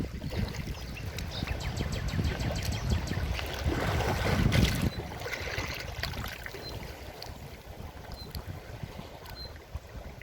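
Forest stream running and splashing continuously, with a louder surge about four seconds in that cuts off suddenly about a second later.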